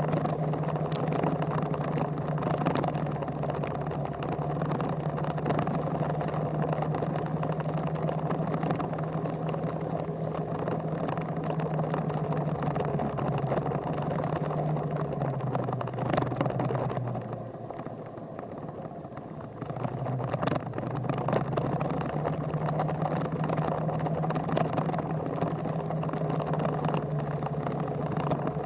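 Motorcycle engine running at a steady speed. About halfway through it eases off to a lower, quieter running for a few seconds, then picks up again to its earlier pitch.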